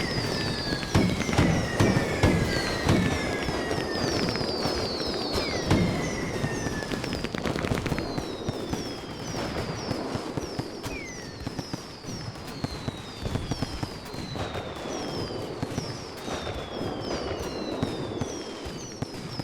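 Fireworks going off: a dense run of pops and bangs, loudest in the first few seconds and thinning out later, with many short whistles falling in pitch over them.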